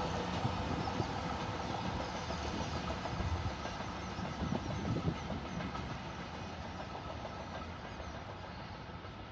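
Passenger train running away down the track, the rumble of its coaches' wheels on the rails fading steadily as it recedes, with a few wheel clacks about halfway through.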